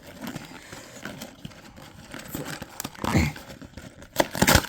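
Cardboard toy box and its packaging being forced open by hand: crinkling and rustling, with two louder ripping tears, about three seconds in and just over four seconds in.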